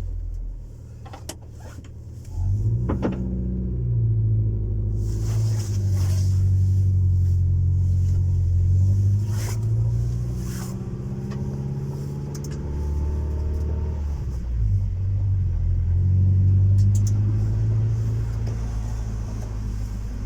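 Honda Civic 1.4i S four-cylinder engine running through a custom-made exhaust. The exhaust note picks up a couple of seconds in, holds with slight rises and falls in pitch, eases off about two thirds of the way through, then builds again, with a few sharp clicks near the start.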